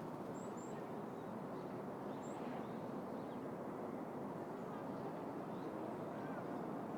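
City park ambience: a steady hum of distant traffic, with a few faint, short bird chirps high above it, two close together near the start and another about two seconds in.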